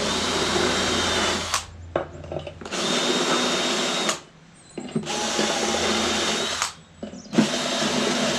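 Electric drill running in four short bursts of about a second and a half each, drilling bolt holes through gasket material for a tractor's PTO housing.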